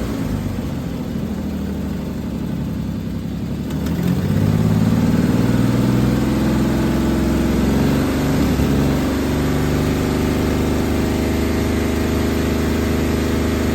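2005 Ford F-150's 4.2L V6 engine running on a test: idling, revved up about four seconds in and held higher for a few seconds, then dropping back to a steady idle.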